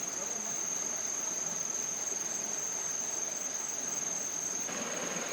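Insects trilling, one steady high-pitched unbroken tone. A broad, soft noise comes in near the end.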